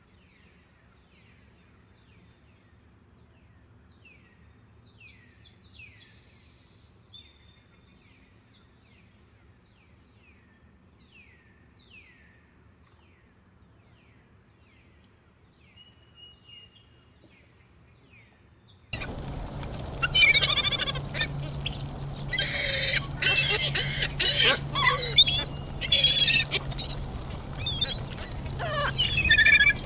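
Forest birds and insects. For the first two-thirds an insect's steady high trill runs under faint, repeated down-slurred bird chirps. Then it cuts abruptly to loud, varied bird song with several birds singing at once over a steady rushing background.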